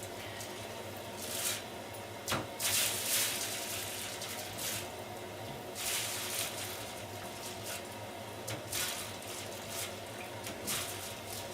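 Cheese being sliced with a hand cheese slicer, short scraping strokes every second or two with one sharp click, over a steady low hum.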